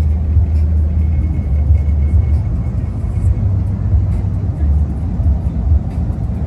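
Deep low rumble of lowrider cars, with music and voices mixed in.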